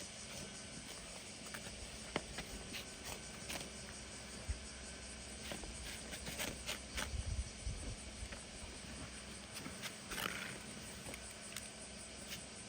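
A cat close to the microphone over steady outdoor ambience, with scattered soft clicks, a few low thumps a little past the middle and a short call about ten seconds in.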